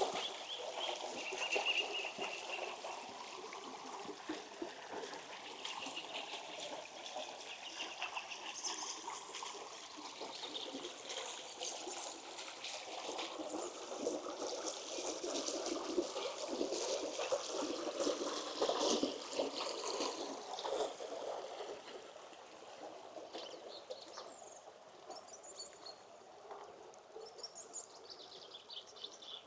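A small village stream running and trickling, with birds chirping over it. The water grows fainter after about twenty seconds.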